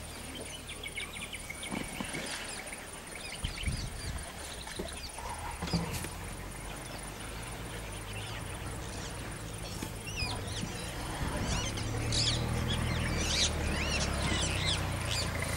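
Wild birds calling and chirping in many short rising and falling notes, busiest in the last few seconds, over a steady low rumble and a few soft knocks.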